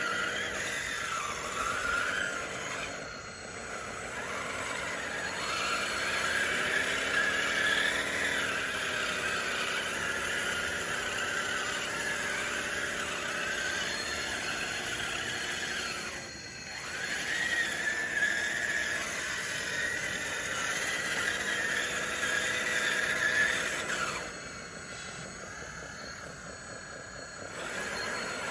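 RC bulldozer's electric drive motors whining and its tracks squealing as it pushes dirt, the whine shifting in pitch with the throttle. It eases off briefly about three seconds in, again around the middle, and for a few seconds near the end.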